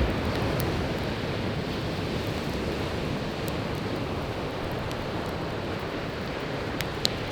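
Surf washing onto the shore in a steady rush, with a few sharp crackles from burning firewood and one louder pop near the end.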